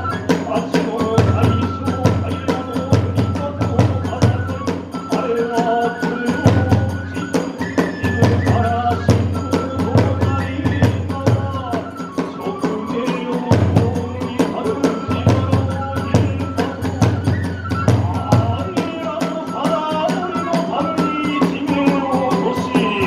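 Hiroshima kagura festival music: a bamboo flute melody held over a steady, brisk beat of drums and small hand cymbals.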